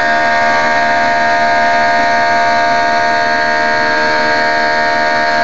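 Airliner engines heard from inside the passenger cabin during the climb after takeoff: a loud, steady drone with a constant whine of several tones.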